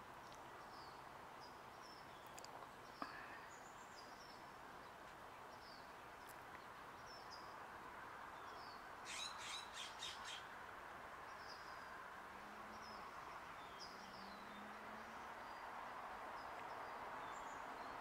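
A small bird chirping faintly, short high notes about once a second over steady faint background noise, with a quick run of five or six louder notes about nine seconds in.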